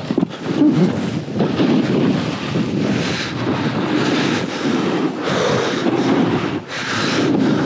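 Rushing noise of snowboarding: wind on the microphone and the board sliding and scraping over fresh snow, a steady hiss that swells and dips.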